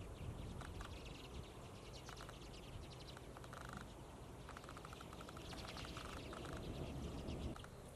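A flock of common redpolls calling, a dry chatter of quick notes in short runs, repeated many times.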